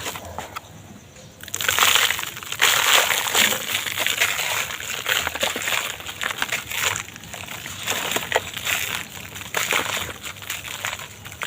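Dry, brittle material being crumbled and crushed: a dense run of crackles and crunches, faint for the first second and a half, then loud.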